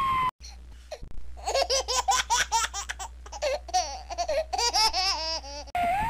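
High-pitched laughter in a run of quick, bouncing 'ha-ha' pulses over a steady low hum, starting about a second and a half in and breaking off just before the siren returns.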